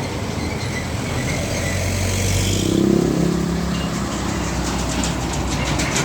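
Roadside traffic: a heavy truck's diesel engine passes close, loudest about three seconds in, over a steady low rumble. A fast, even clatter follows near the end.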